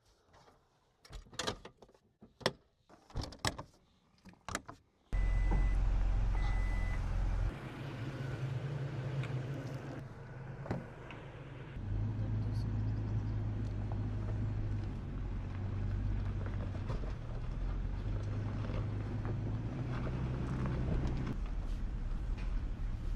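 A few scattered knocks and clicks, then about five seconds in the steady low drone of a pickup truck's engine and road noise comes in suddenly and runs on. The low hum shifts in level and pitch several times as it drives.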